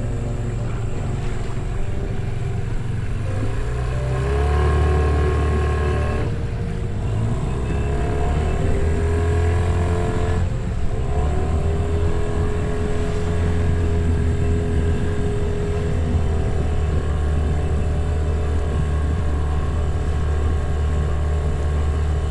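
Small outboard motor on a dinghy running steadily, its engine note rising and falling a few times as the throttle changes.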